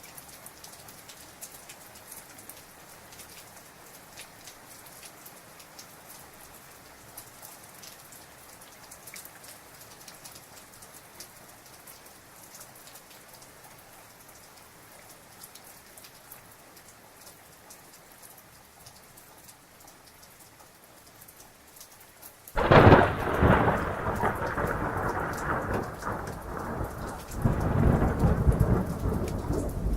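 Heavy rain falling steadily, pattering on surfaces, then about 22 seconds in a sudden loud thunderclap that rolls on as a long rumble, swelling again near the end before fading.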